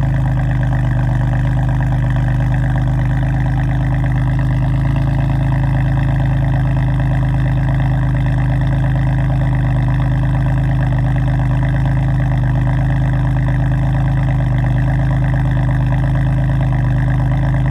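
BMW F82 M4's S55 twin-turbo straight-six idling steadily through an Akrapovič exhaust after a cold start, at an even, unchanging pitch.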